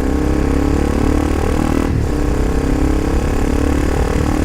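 Honda CBR300R single-cylinder engine heard at the exhaust while riding: revs climb, drop briefly at a gear change about two seconds in, then climb again. The exhaust note is raspy and sharp, which the rider puts down to the silencer's glass-wool packing being nearly worn out.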